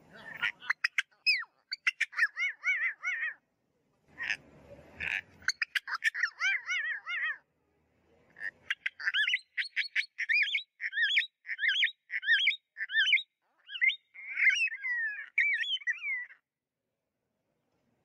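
Galahs (rose-breasted cockatoos) calling: rapid series of short, arched, screechy calls, about two to three a second, in three bouts with brief pauses between them.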